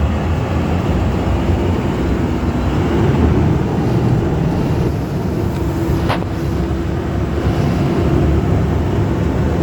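Amphibious duck boat underway on the river: its engine runs steadily with a low drone and a faint steady hum. A single short click about six seconds in.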